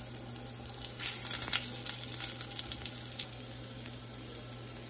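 Thick rounds of daikon sizzling in butter and avocado oil in a stainless steel frying pan: a steady frying hiss with scattered light crackles, a few stronger ones about one and a half seconds in.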